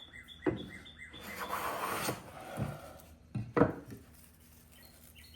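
A #5 1/2 jack plane taking a shaving along the edge of a board: a rasping stroke about a second in, with a sharp wooden knock a bit past halfway as the plane meets the wood. A small bird chirps repeatedly in the background.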